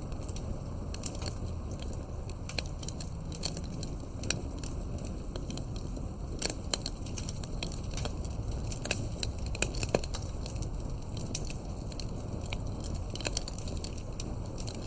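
Campfire crackling: irregular sharp pops and snaps of burning wood over a steady low rumble, with one louder pop about ten seconds in.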